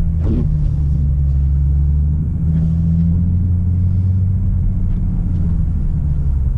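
Vehicle engine running at low, steady speed, heard from inside the cabin as a low drone, its pitch shifting slightly about two seconds in.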